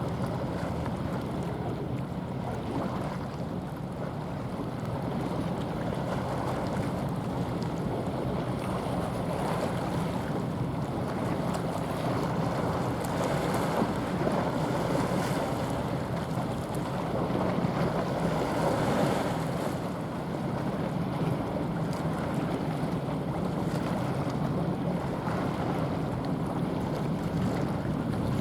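Steady low engine drone of a large ship passing through the strait, mixed with wind buffeting the microphone and the wash of water.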